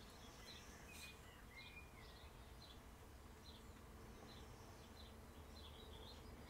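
Near silence with faint birds chirping in the background: short high notes repeating about twice a second, with a few brief warbling glides.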